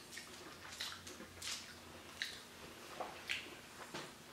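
Soft, wet chewing and mouth sounds of people eating forkfuls of pasta, with a few faint smacks and clicks spread through.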